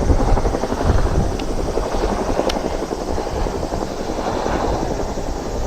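Gusting wind buffeting the microphone, a loud fluttering rumble, with two faint clicks in the middle.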